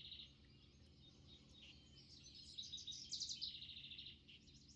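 Faint songbirds singing, with trills and quick runs of high notes; the clearest is a burst of rapid notes falling in pitch about three seconds in.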